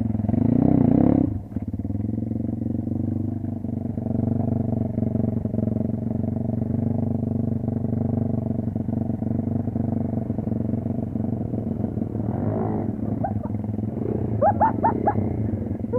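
Motorcycle engine running steadily with an even, unchanging note. A louder stretch comes in the first second or so, and near the end a run of short rising yelps comes over it.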